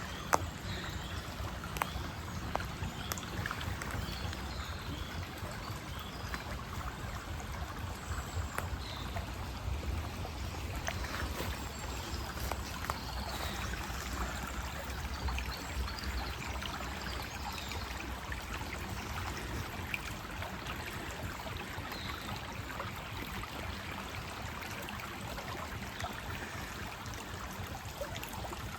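Steady rush of running water from a woodland stream, with scattered faint taps and a few faint high chirps; one sharper tap just after the start.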